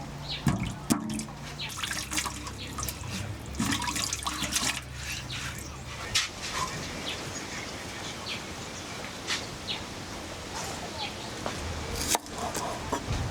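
Water dripping and splashing, with scattered clicks and knocks throughout.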